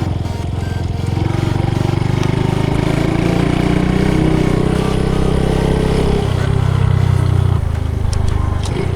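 Honda Super Cub C125's single-cylinder four-stroke engine running through a Yoshimura GP-Magnum Cyclone exhaust while riding. The revs climb over the first five seconds, then drop sharply about six seconds in and again shortly before eight seconds.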